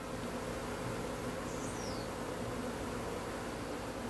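Steady buzzing hum of a colony of Africanized honey bees swarming around an opened hive box during an inspection. A faint, brief, high falling whistle comes about one and a half seconds in.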